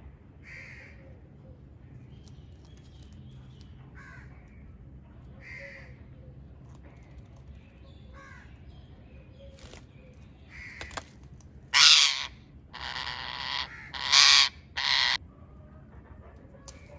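Pet parrot squawking: soft scattered calls, then four loud, harsh squawks in quick succession about two-thirds of the way through.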